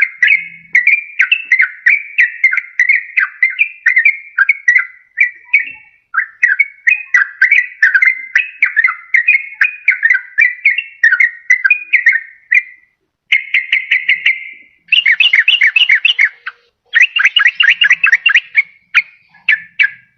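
Sooty-headed bulbul (trucukan) singing long, rapid chattering runs of short whistled notes. It starts at about three or four notes a second, pauses briefly about 13 s in, then goes on in faster, denser bursts with short breaks near the end.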